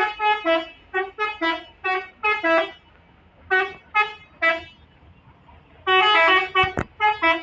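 Multi-tone musical vehicle horn playing a quick tune of short toots that alternate between two pitches, in several rhythmic bursts with short pauses between them.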